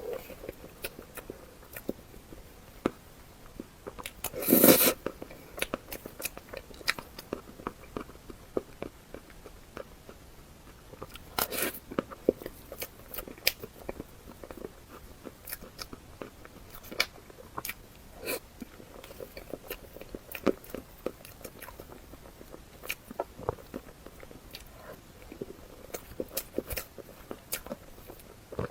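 Close-miked eating: repeated bites and chewing with crisp clicking and crunching mouth sounds, with a louder bite about four and a half seconds in and another about halfway through.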